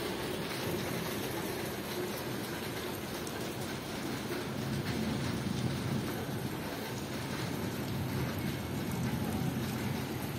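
Steady rainfall, with a low rumble underneath that swells about halfway through.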